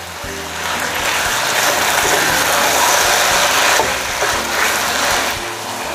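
Beef pieces frying in rawon spice paste in a wok, a steady sizzle as they are stirred with a spatula. The sizzle swells about a second in and eases near the end.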